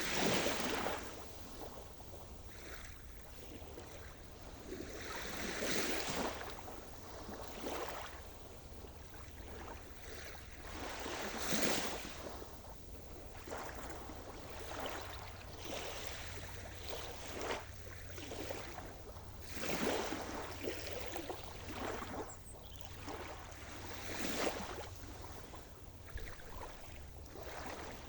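Sea surf: waves break and wash onto the shore one after another, each surge swelling and fading over a few seconds.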